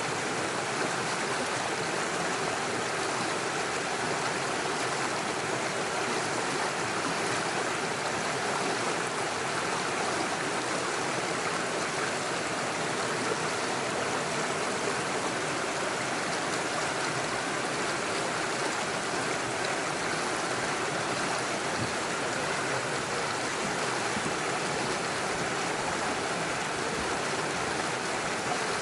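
Small forest stream rushing and splashing over stones in small waterfalls, a steady, even sound of running water.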